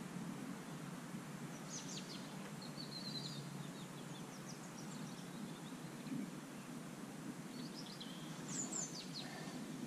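Small birds chirping and trilling, a few calls about two seconds in and a louder cluster near the end, over a steady low hum of outdoor background noise.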